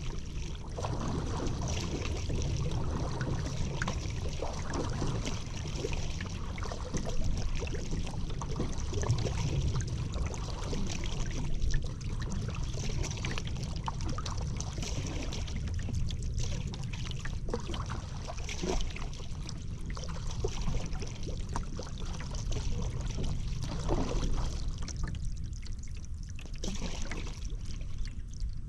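Paddle strokes on a river: water dripping and trickling off the paddle blade and splashing, with small knocks, over a steady low rumble.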